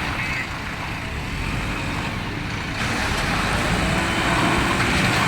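Diesel engine of a JCB 3DX backhoe loader running steadily, getting louder about three seconds in as it works harder.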